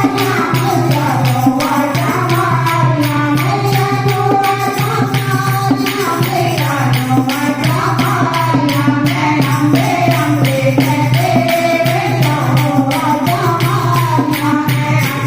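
Devotional kirtan (bhajan) music: a wavering melody line over a steady drone, driven by a fast, even hand-percussion beat.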